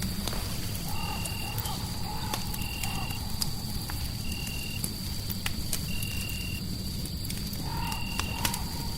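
Crackling fireplace: a steady low rumble with scattered sharp pops and crackles. Over it runs a night chorus: a steady high whine, and a short high chirp repeating roughly every second and a half. A lower wavering croak-like call comes in twice, about a second in and again near the end.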